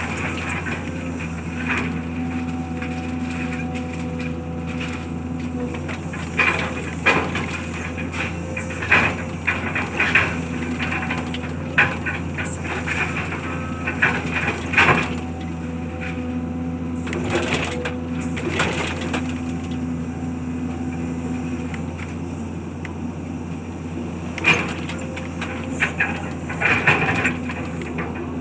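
A machine engine running steadily, with irregular cracks and crunches of material being broken apart in demolition work.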